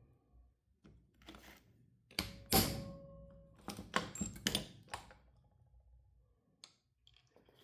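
Metal tools knocking and clanking on a stuck carburetor part being worked loose. The loudest knocks come about two and a half seconds in and leave a short metallic ring, with a second cluster of knocks about four seconds in.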